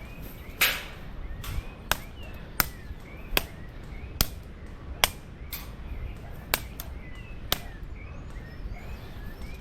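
Airsoft guns firing single shots, about nine sharp cracks spaced roughly a second apart, with birds chirping in the background.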